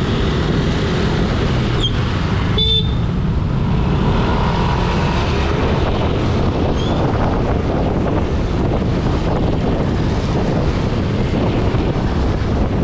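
Steady wind rumble on the camera's microphone from riding a motorcycle through traffic, with road and traffic noise underneath. About two and a half seconds in, a vehicle horn gives one short beep.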